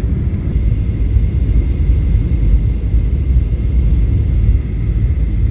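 Steady low rumble of a jet airliner heard from inside the cabin on final approach: engine and airflow noise with no sudden events.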